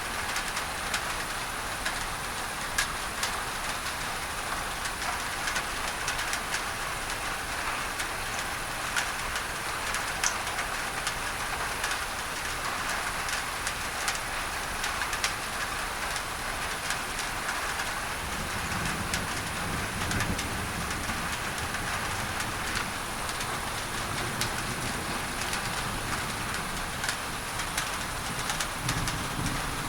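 Steady rain on a tin roof, many single drops ticking through a constant hiss. A low, distant thunder rumble comes in about two-thirds of the way through and swells again near the end.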